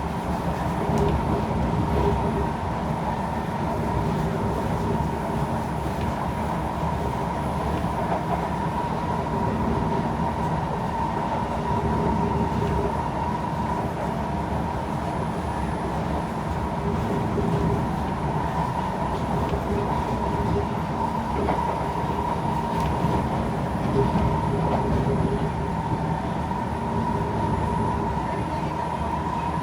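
Kawasaki C151 metro train running at steady speed between stations, heard as a continuous rumble of wheels on rail with a steady whine.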